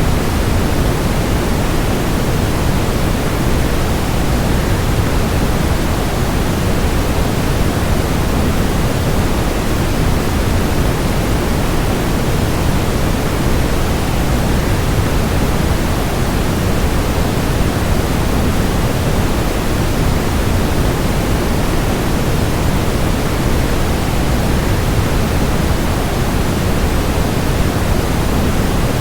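Steady, even rushing noise of a waterfall blended with white noise, strongest in the low range, without any change or separate sounds.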